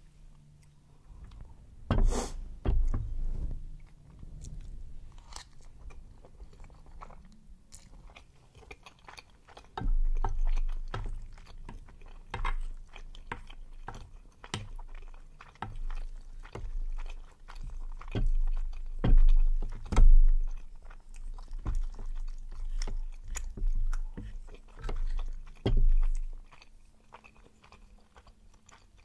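Close-miked chewing of chewy Korean rice cakes (tteokbokki) in spicy sauce, with many wet mouth clicks and low thuds. One sharp knock about two seconds in, and a wooden spoon scraping the ceramic dish.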